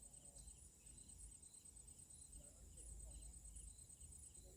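Faint outdoor ambience: insects calling, a steady high trill with short chirps repeating below it, over a low rumble.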